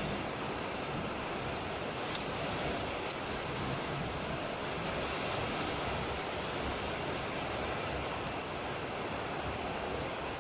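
Steady heavy rain, an even hiss with no thunder, and one small click about two seconds in.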